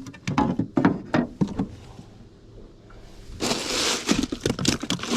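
Quick knocks, clicks and scrapes of a freshly caught crappie and tackle being handled in a boat. A short rush of noise comes about three and a half seconds in, and a few more knocks follow.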